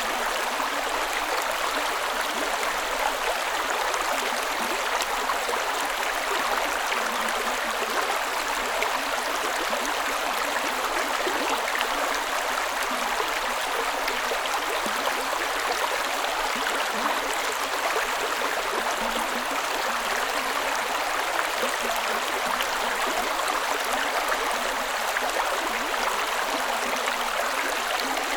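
A creek flowing in a steady, unbroken rush of water, mostly higher-pitched splashing with little deep rumble.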